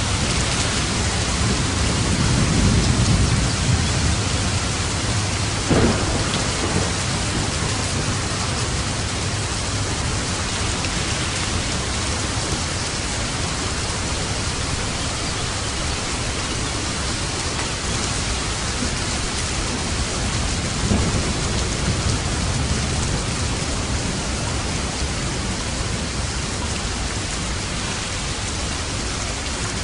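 Steady heavy rain with thunder: a low rumble swells in the first few seconds, and sharper claps of thunder come about six seconds in and again about twenty seconds in.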